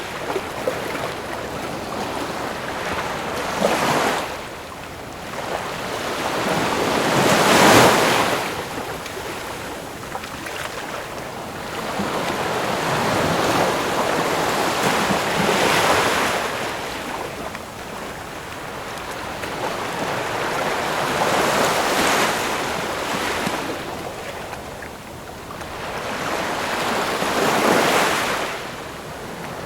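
Ocean waves breaking and washing on the shore, each swell building to a crash and fading, about five in a row with the loudest about eight seconds in.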